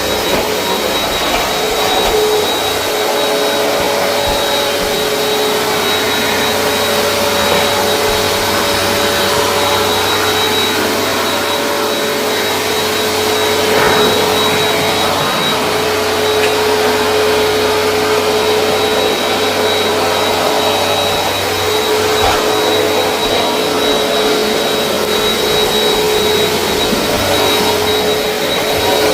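Vacuum cleaner running at a steady pitch, its motor whine over the rush of suction air.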